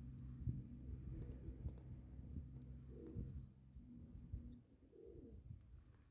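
Faint outdoor background: a low steady hum with scattered small clicks, and a bird's low coo twice, about three and five seconds in.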